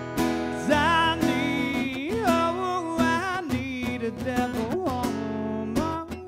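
Live rock/country music: strummed guitar chords under a lead melody with sliding, bending notes, an instrumental passage between sung lines.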